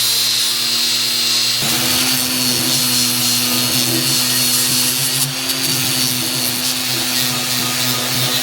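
Electric power tool grinding on rusty iron, with a steady motor hum under a bright hiss. The motor's pitch shifts about one and a half seconds in, as the tool changes speed or load.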